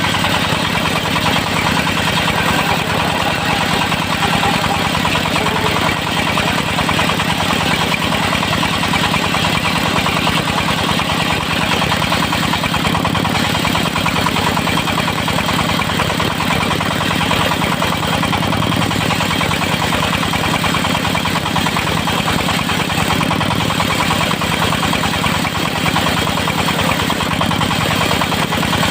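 Diesel engine of a portable circular-saw sawmill running steadily at an even speed.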